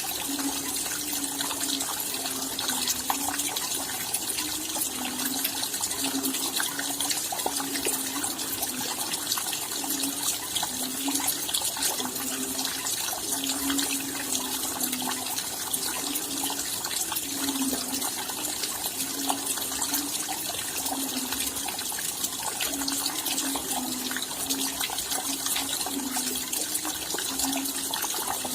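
Steady rain falling, a dense patter of many raindrops, with short low plops recurring irregularly underneath.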